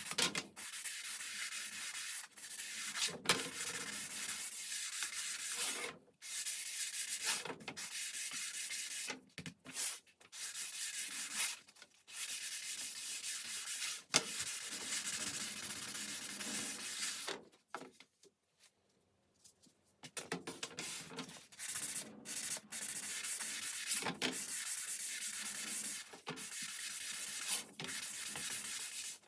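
Hand strokes rubbing over a wooden baseboard, a dry scratchy hiss in runs of one to two seconds with short breaks and a few sharp clicks. It stops for a couple of seconds about two-thirds of the way through.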